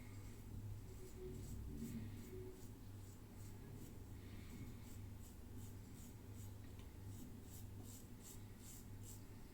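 Soft, short scratchy strokes repeated in quick succession, coming about twice a second in the second half, over a faint steady low hum.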